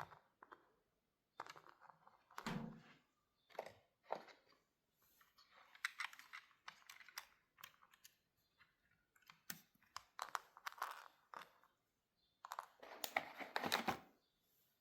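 Close-up handling of objects: irregular clicks, taps and crinkling, with a longer, louder crinkling rustle near the end.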